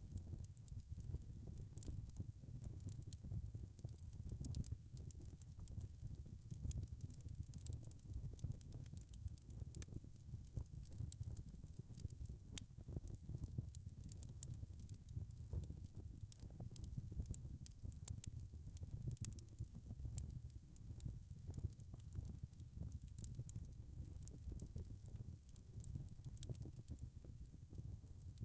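Wood fire crackling: a steady low rumble of flames with frequent small, sharp crackles and pops.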